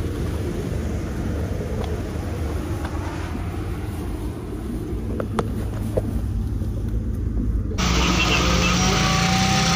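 Small Datsun car's three-cylinder engine running with a low steady hum, with two light clicks about five and six seconds in. Near the end the sound turns suddenly louder as the engine revs rising under load, pulling the car up a steep grade.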